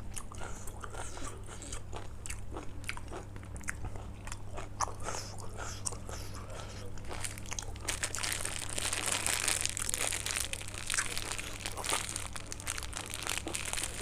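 A person chewing and crunching food close to the microphone: many small wet crunches and mouth clicks, busier and louder about two-thirds of the way through.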